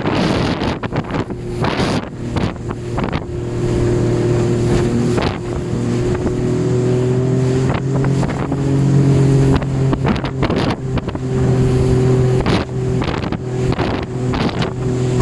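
A boat's motor running steadily, with wind buffeting the microphone in irregular gusts.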